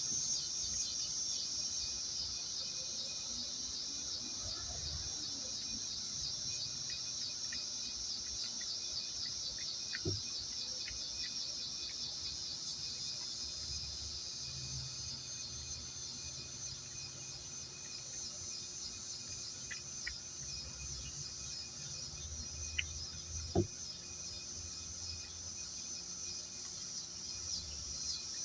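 Steady chorus of insects, a high, finely pulsing trill, with a few faint sharp clicks now and then.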